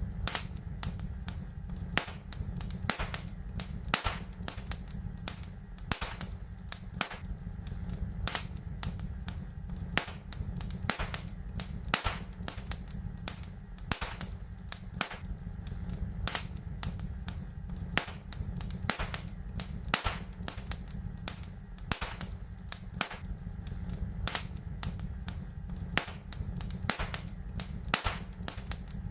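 Wood fire in a fireplace, crackling and popping with sharp irregular snaps several times a second over a steady low rumble of the flames.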